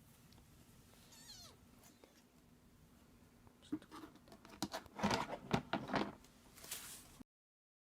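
Two-week-old kitten mewing: one thin, high cry falling in pitch about a second in, then a flurry of louder short cries mixed with clicks from about four seconds in, cutting off suddenly near the end.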